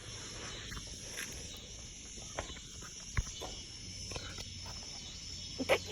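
Quiet background hiss with a faint steady high hum, broken by a few scattered small clicks and one sharper tap about three seconds in.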